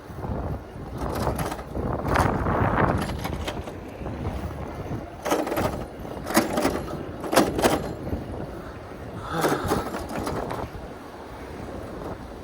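Wind buffeting a moving bicycle rider's microphone, in irregular gusts over a steady rush of road and traffic noise.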